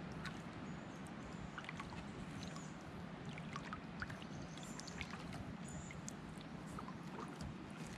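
Kayak paddling: the paddle dipping into creek water, with water trickling and dripping off the blade and small scattered clicks and splashes.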